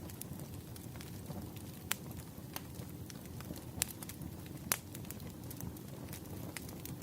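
Fireplace fire crackling: a low, steady rumble with scattered sharp pops, the loudest about two, four and nearly five seconds in.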